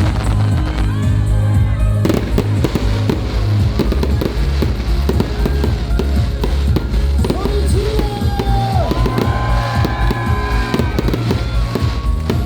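Fireworks going off in a rapid string of cracks and pops, over music with a steady bass line.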